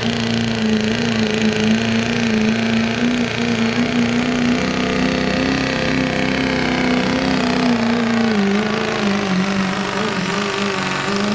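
Turbocharged diesel pickup truck engine at full throttle pulling a sled, held at high revs with a steady tone that wavers and dips a little several times toward the end.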